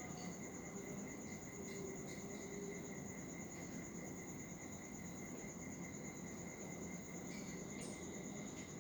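A steady, high-pitched insect trill with a finely pulsed texture, plus a few faint short chirps scattered through it, two of them close together near the end.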